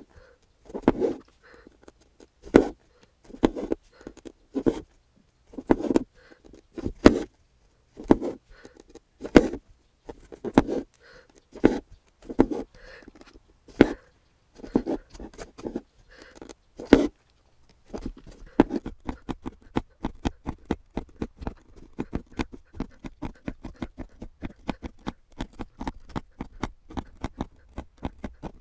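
Hand-embroidery needle and thread drawn through fabric, a series of short swishing strokes about one a second. From about 18 seconds in, a faster run of light ticks follows.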